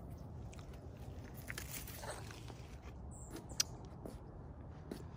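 Faint mouth sounds of a person chewing a small pygmy date palm fruit and working out its seed, with scattered soft clicks and one sharp click a little past halfway, over low steady background noise.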